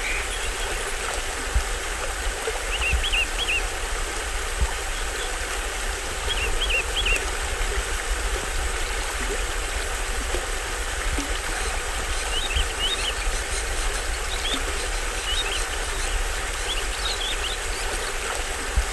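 Steady rush of a small stream-fed waterfall over a low rumble, with short high bird chirps in quick little clusters several times.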